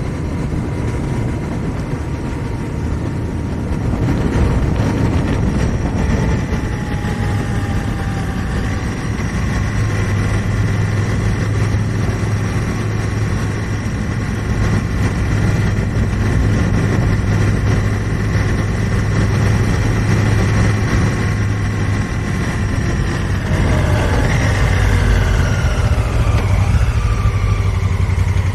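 2018 Honda Africa Twin Adventure Sports motorcycle's parallel-twin engine running steadily at low riding speed; its pitch falls about three-quarters of the way through as the engine slows, then picks up again.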